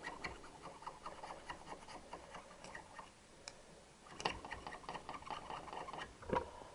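Carbon deposits being scraped by hand off a Triumph 650 engine valve: a quick run of small scratching ticks that pauses about three seconds in and then resumes, with a single knock near the end.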